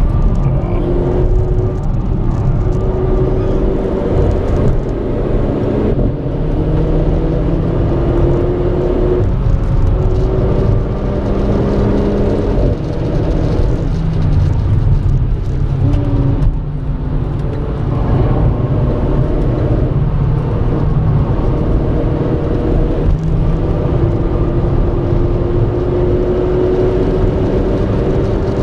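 Renault Clio RS 220's turbocharged four-cylinder engine heard from inside the cabin, pulling hard on track. Its pitch climbs slowly and drops back sharply several times at gear changes or lifts, over steady road and wind rumble.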